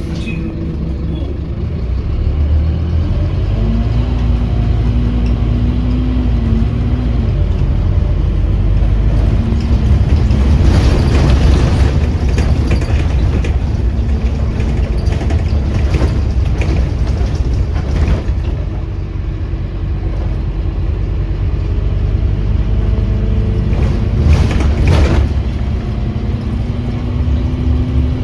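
Scania OmniCity bus's diesel engine running under way, heard from inside the bus, its note rising and falling with the driving. Short bursts of noise and rattles come through in the middle and near the end.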